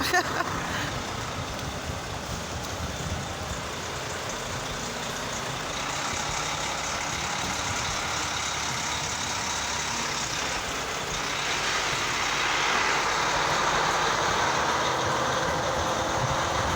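Traffic driving slowly along a flooded street, the tyres running through standing floodwater; the noise swells as a vehicle passes about twelve seconds in.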